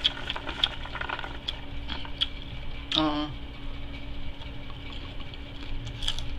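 A person eating close to the microphone: scattered wet mouth clicks and smacks of chewing, with one short vocal sound about three seconds in.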